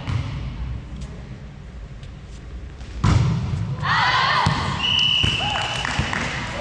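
A hard thump of a volleyball being played about three seconds in, followed by several players shouting at once and a short steady blast of the referee's whistle.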